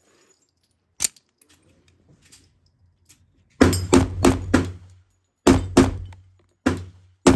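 Shots from a .45 ACP 1911 pistol fired in quick strings: a single shot about a second in, then four rapid shots about a third of a second apart, a pair, and another pair near the end, each with a short echo.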